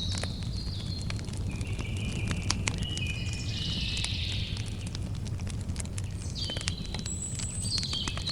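Campfire crackling, with frequent sharp pops and snaps over a low steady rumble. A bird sings short phrases of clear whistled notes that step down in pitch, in the first few seconds and again near the end.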